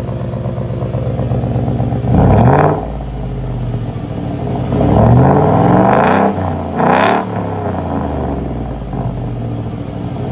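Ford F-150's 5.0 Coyote V8 exhaust with a muffler delete and the resonator kept, idling and then revved: a short blip about two seconds in, a longer rev around five seconds, and a sharp blip near seven seconds, each dropping back to a steady idle.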